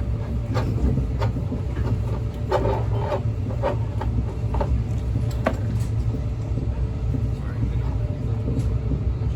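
Steady low rumble of a moving vehicle heard from inside, with scattered light clicks and knocks and faint voices in the background.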